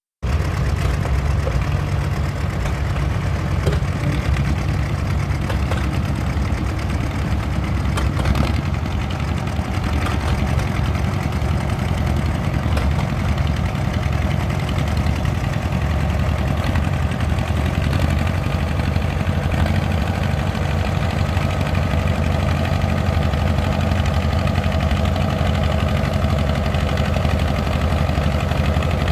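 Vintage tractor engine running at a steady speed: a deep, even drone that neither revs up nor dies down.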